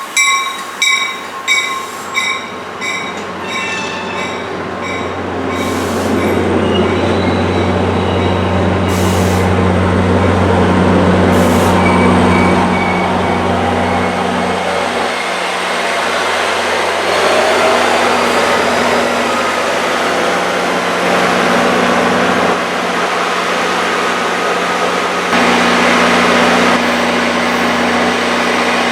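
A bell rings about twice a second and fades away after a few seconds, then a train runs past or stands close by: a steady low hum with rolling rumble and some wheel squeal.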